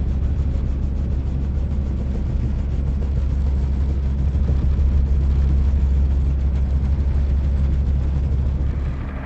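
Helicopter in flight: a loud, steady, low drone of rotor and engine with a rapid pulsing throughout. The level drops and the sound changes just before the end.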